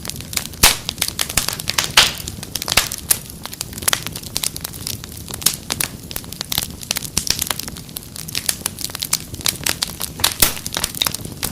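Wood fire crackling in a fireplace: irregular sharp pops and snaps, some loud, over a steady low hiss and rumble of the flames.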